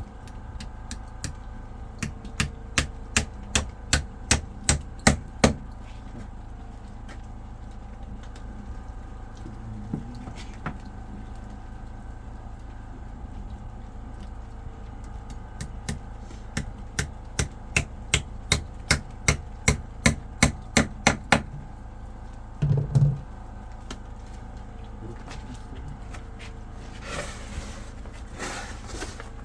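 Two runs of sharp, regular knocks like hammer blows, about two to three a second, each run lasting a few seconds, with a single heavier thump after the second run. A steady low hum runs underneath.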